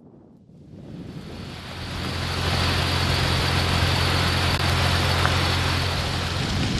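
Motorcycle under way: a loud rush of wind over the microphone builds up over the first two seconds and then holds, with a steady low engine drone underneath.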